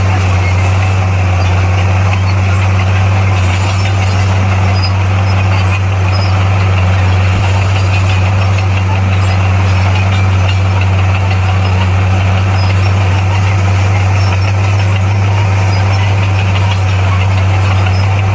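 A bulldozer's heavy diesel engine running at a steady, unchanging pitch with a deep, constant drone.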